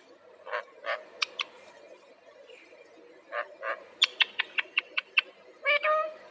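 Parrot calling: short, sharp chirps and clicks in small groups, a quick run of about seven clicky calls around four to five seconds in, then a longer pitched squawk near the end.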